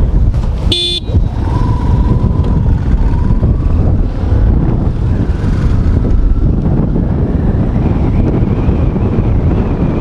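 Wind buffeting the microphone over the steady running of a Yamaha FZS's carbureted single-cylinder engine on the move, with a brief high toot about a second in.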